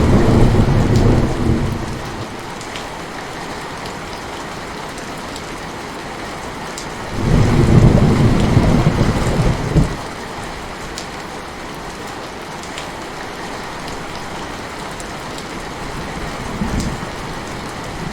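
Heavy rain falling steadily, with rolls of thunder: one at the start that fades over about two seconds, a louder one about seven seconds in lasting nearly three seconds, and a brief faint one near the end.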